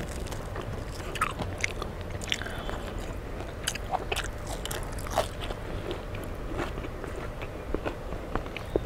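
Close-miked eating: chewing and crunching of crisp fried fish eaten by hand, with scattered short sharp crunches and clicks.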